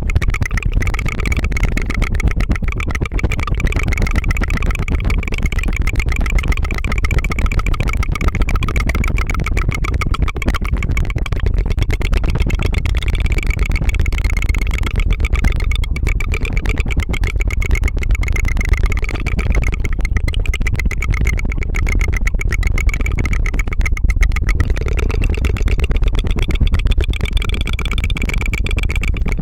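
Continuous tongue fluttering right at the microphone: a fast, even trill that sounds like a small engine puttering.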